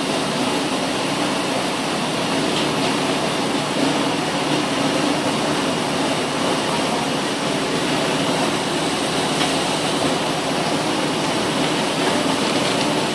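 Steady mechanical running noise, even and unbroken, with a low hum under a broad rushing sound.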